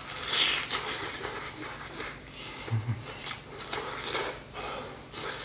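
Close-up crunching and chewing of a crispy fried chicken drumstick, the crust crackling in many short clicks as it is bitten and torn. There is a brief low hum near the middle.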